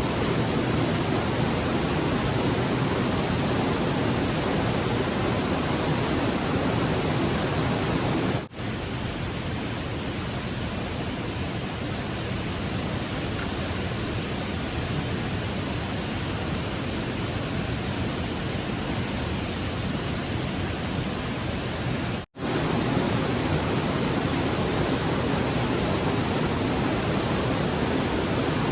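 Stream water rushing steadily, a continuous even noise. It cuts out briefly twice, about eight and twenty-two seconds in, and the middle stretch is slightly quieter.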